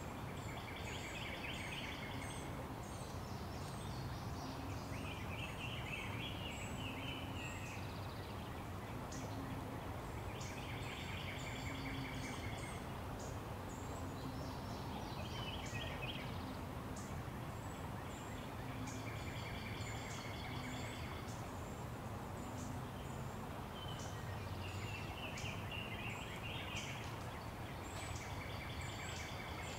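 Birds calling in rapid trilling chirps that come in short bouts every few seconds, with sharp high ticks between them, over a steady low background rumble.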